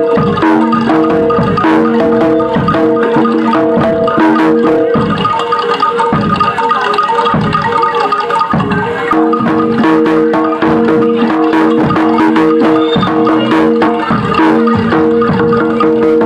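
Loud percussion music in a gamelan style: struck metal mallet instruments ring held notes over fast, dense drum strokes. The held notes drop out for a few seconds around the middle and come back.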